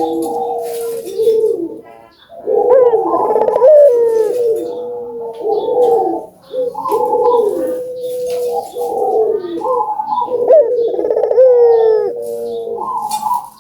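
Barbary doves (puter) cooing repeatedly in loud, overlapping phrases, each a second or two long, with a drawn-out low coo holding one pitch. The calls follow each other almost without pause, with fainter higher chirps among them.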